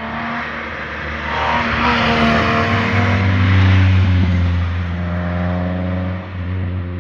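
A car driving past under power on a mountain road, its exhaust note swelling to loudest about three to four seconds in and then fading as it goes by.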